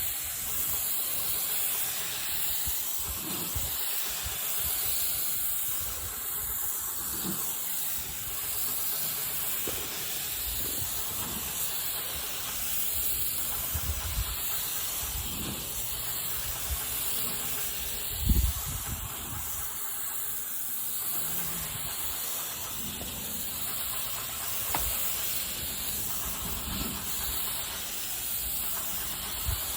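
Airless paint sprayer spraying paint: a steady hiss from the spray gun, with occasional low thumps, one louder a little past the middle.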